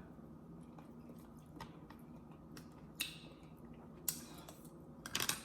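A person chewing food close to the microphone: faint, with a few short wet mouth clicks about three and four seconds in and a quick cluster near the end.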